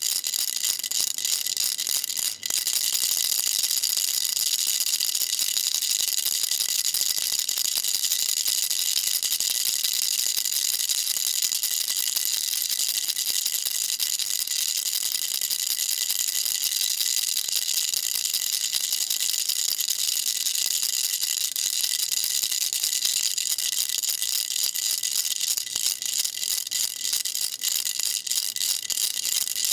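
Baby rattle shaken continuously: a dense, fast, high-pitched rattling with no pauses except a brief break about two and a half seconds in.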